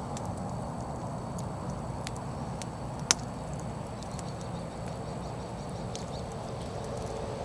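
Firewood burning in an open bonfire, crackling with scattered small snaps and one loud pop about three seconds in, over a steady low rush.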